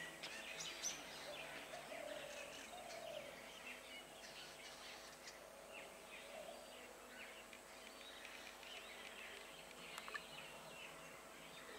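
Faint birdsong, many short chirps and calls, over a quiet steady background hiss, with one sharp click about ten seconds in.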